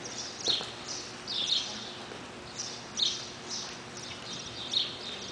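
Small birds chirping in short, high bursts at irregular intervals.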